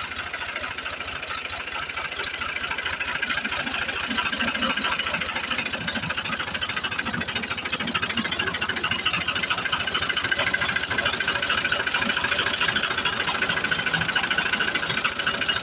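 Tractor diesel engine running steadily with a fast, even clatter, getting somewhat louder a couple of seconds in.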